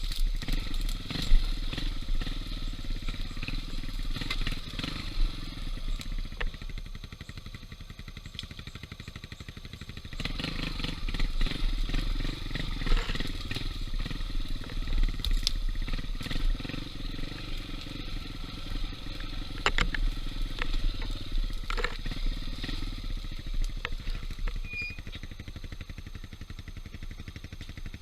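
Yamaha XTZ125 trail bike's single-cylinder four-stroke engine revving up and down as it is ridden over a dirt trail, with scattered rattles and knocks from the bike over rough ground. The engine eases off to a quieter run about a quarter of the way in and again near the end.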